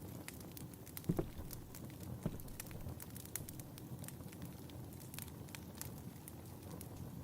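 Wood fire in a fireplace crackling, with many small sharp pops over a steady low rumble. A couple of duller knocks stand out, about a second in and again a second later.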